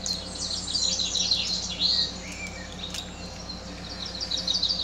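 Small bird twittering and chirping in quick, high, warbling phrases, over a steady low hum, with one sharp click about three seconds in.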